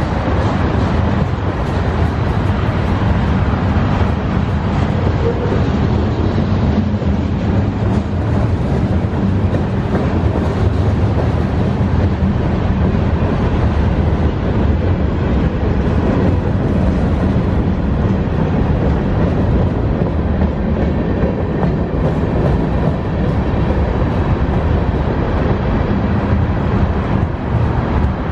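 Norfolk Southern mixed freight train rolling past, a loud, steady rumble of cars and wheels on the rails with no let-up.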